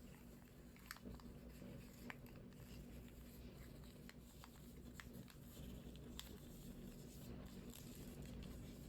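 Faint scattered clicks and rustles of paper being folded and creased by hand, over a low steady hum.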